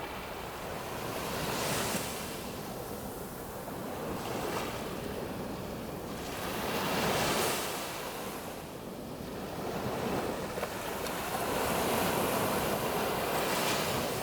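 Sea waves breaking and washing up the beach, the hiss of the surf swelling and falling back about every two to three seconds.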